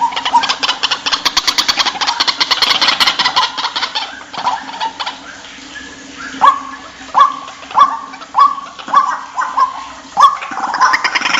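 White-breasted waterhen calling: a fast chattering run of repeated notes, then from about six seconds in a series of seven loud, sharp calls at a steady beat of roughly three every two seconds. A new fast chatter starts near the end, over a faint steady low hum.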